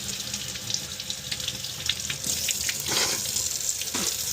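Water running from a sink tap and splashing through a furnace condensate drain trap as it is rinsed clean, with a surge of splashing about three seconds in.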